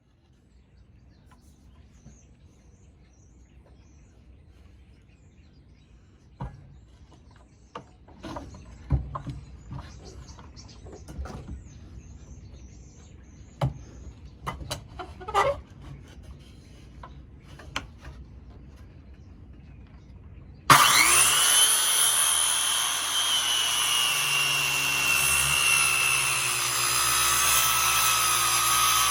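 Scattered light knocks and rubbing of wood being handled, then about two-thirds of the way through an electric power tool starts suddenly and runs loudly with a steady high whine.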